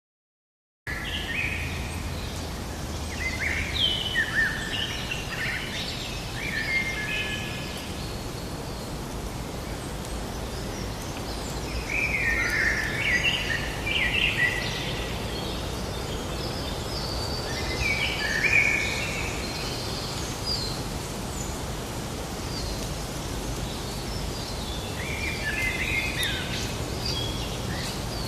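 Forest ambience that starts abruptly about a second in: a steady low rumble of background noise with songbirds singing in short chirping bouts every few seconds.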